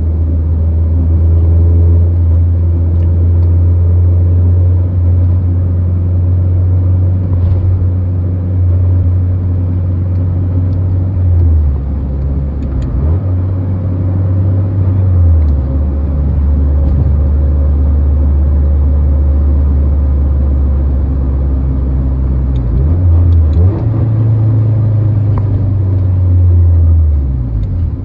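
1996 Acura Integra LS's 1.8-litre B18B four-cylinder engine droning inside the cabin while driving, with tyre and road noise under it. The engine note steps down and back up a few times and falls away near the end as the car slows.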